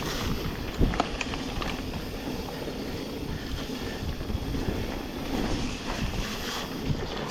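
Wind rushing over a GoPro microphone as a mountain bike rolls along a wet trail, with scattered knocks and rattles from the bike going over bumps.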